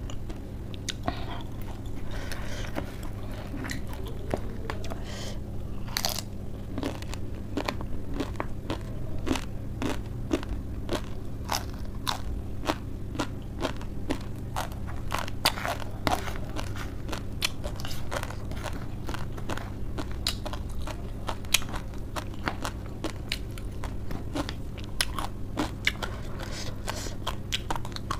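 Close-up chewing and biting of crisp raw cabbage and lettuce leaves wrapped around spicy Wai Wai instant noodles: a long run of irregular wet crunches, over a steady low hum.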